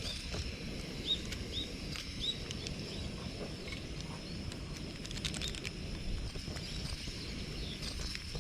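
Outdoor ambience: a few short, quick bird chirps in the first couple of seconds over a steady thin high tone and a low rumble, with a brief cluster of clicks about five seconds in.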